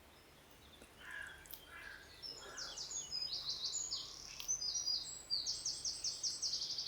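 Woodland birds singing: a few soft calls, then from about two seconds in repeated rapid runs of high, short, downward-sweeping notes.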